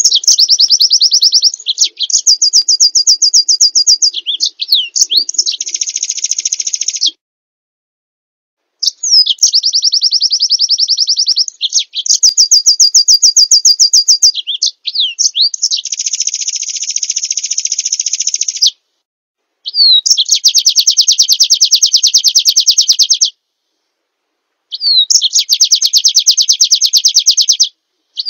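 A small songbird singing long, fast trills of rapidly repeated high notes, in about four phrases of several seconds each with short silent gaps between them.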